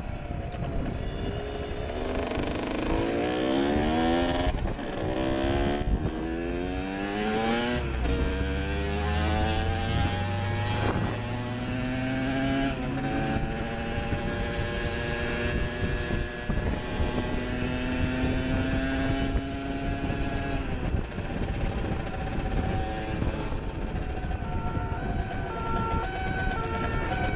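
Motor vehicle engine accelerating hard through several gears: its pitch climbs in repeated sweeps and drops back at each shift, then runs steadier.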